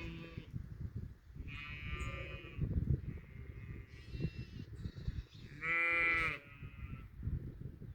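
Sheep bleating on pasture, ewes and lambs: about four separate calls, one higher-pitched, the loudest and longest about six seconds in. A low rumbling noise runs beneath them.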